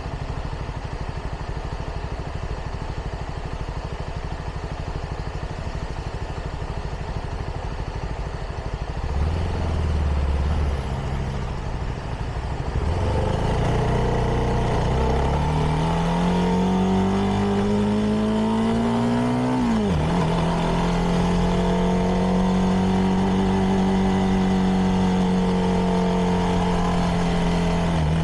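CFMoto 300NK's single-cylinder engine through its stock exhaust, heard from the rider's seat. It runs low and steady for about nine seconds, then pulls away with the engine note rising steadily, drops sharply on an upshift about twenty seconds in, and settles into a steady cruise.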